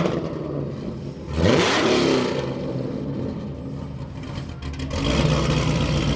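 Cammed, supercharged Cadillac CTS-V V8 through a QTP exhaust cutout setup: a sharp rev about a second and a half in that falls away, then the engine settles back into a steady idle near the end.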